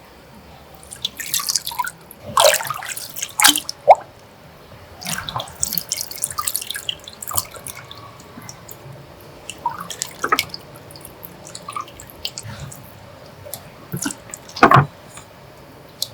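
Water splashing and dripping in irregular bursts, with sharp clicks and light knocks mixed in.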